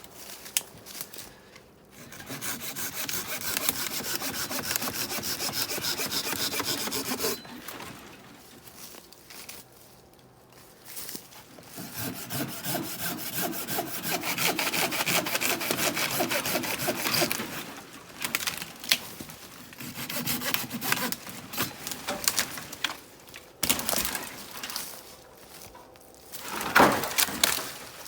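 Hand saw cutting through dead wood in two long runs of rapid back-and-forth strokes, with a pause between them. Shorter scattered strokes follow, then a loud snap or knock near the end.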